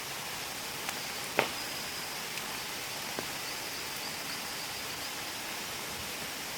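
Steady rush of flowing stream water, with a few sharp clicks over it, the loudest about a second and a half in.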